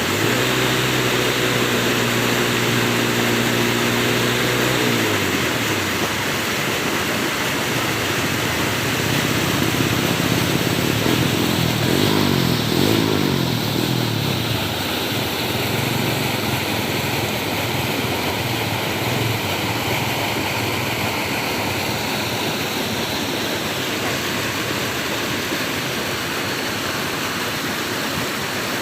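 Steady rush of flowing water, with an engine humming over it that drops in pitch as it passes about five seconds in, and another brief rise and fall in engine pitch around twelve to fourteen seconds.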